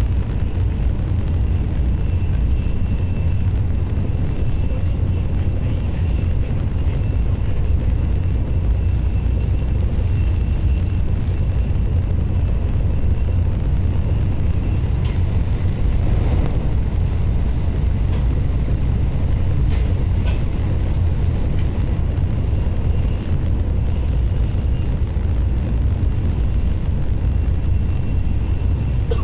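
Shinkansen bullet train running at speed, heard from inside the passenger cabin: a steady low rumble with a faint high whine that comes and goes, and a few light clicks about halfway through.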